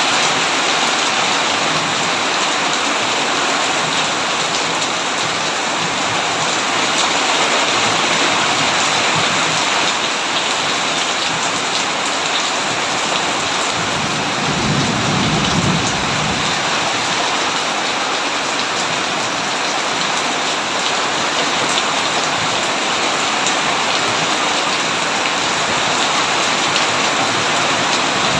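Steady heavy rain pattering on a tin roof. About halfway through, a low rumble of thunder swells and fades over roughly two seconds.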